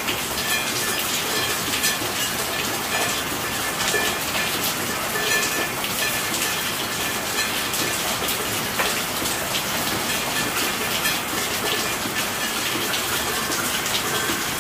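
Steady rain falling: a dense, even hiss of drops, with a few sharper single drop hits here and there.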